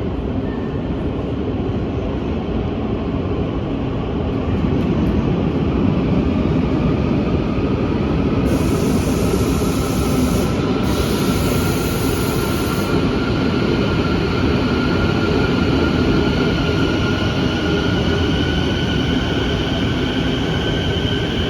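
Quito Metro subway train running: a steady rumble of wheels on track, with an electric motor whine that slowly rises in pitch as the train gathers speed. A high hiss joins in for a few seconds around the middle.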